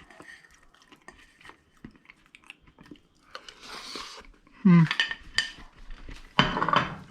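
Cutlery clinking and tapping on a plate while meringue is eaten. In the second half come two short, louder voice-like sounds.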